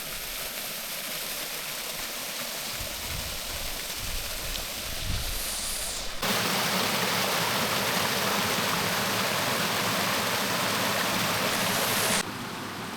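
Rushing water of the Dreimühlen waterfall, where a brook falls about 4 to 6 m over a ledge some 12 m wide: a steady rush of water. It turns louder abruptly about six seconds in and drops back just before the end.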